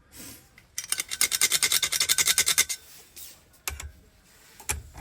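A metal key blank being filed by hand in quick rasping strokes for about two seconds, then a few light clicks.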